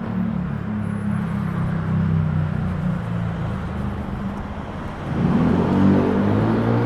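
A motor vehicle's engine running close by on a city street, steady, then getting louder about five seconds in.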